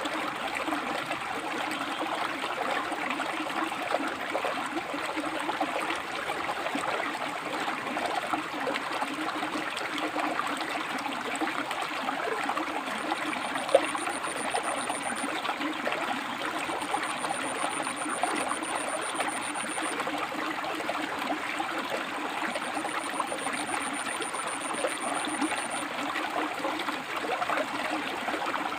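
A rocky river flowing, a steady rush and splash of water over stones. A thin, high-pitched whine comes and goes three times in the middle stretch, each lasting a few seconds.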